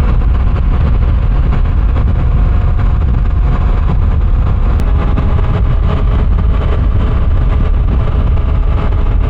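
Motorcycle riding at road speed: wind rushes over the microphone in a steady low rumble, with the engine's even hum underneath.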